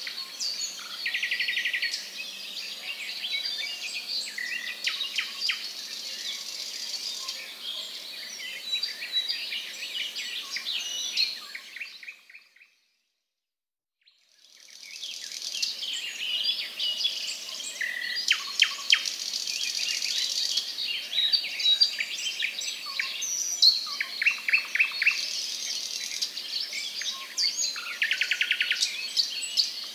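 Many small birds chirping and calling over each other, with several rapid buzzy trills. The sound fades out for about two seconds midway, then returns.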